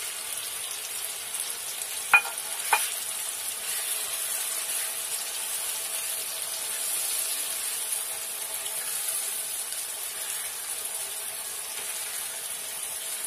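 Goat brains sizzling steadily in hot oil with onion and spice masala in a frying pan as they are stirred with a spatula. Two sharp knocks stand out about two seconds in.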